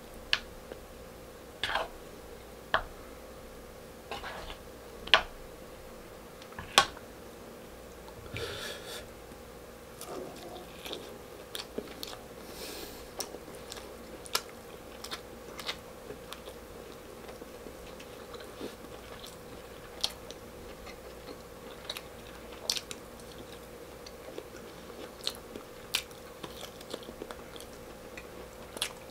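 Close-up mouth sounds of someone eating braised pork stew and rice: wet chewing with sharp lip smacks and mouth clicks at irregular intervals. A faint steady hum sits underneath.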